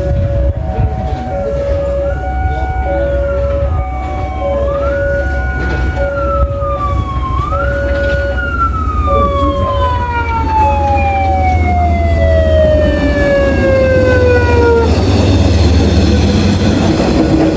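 Railway level crossing warning signal sounding a repeating two-note chime, over a deep steady rumble, while a siren wails up and down three times and then winds down in one long falling tone. Near the end the noise of the approaching train swells.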